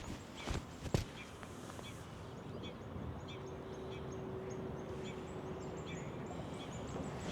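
Birds chirping in a quick series of short, high calls over a steady background, with a couple of knocks in the first second.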